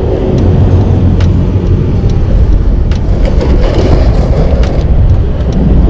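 Kawasaki ZX25R's four-cylinder engine running on the move, with heavy wind rumble on the microphone.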